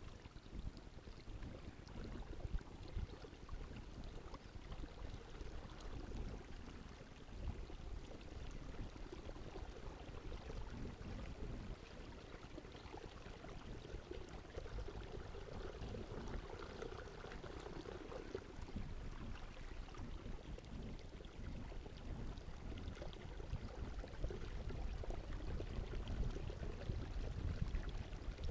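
Water splashing and trickling around a kayak on the move, over an uneven low rumble.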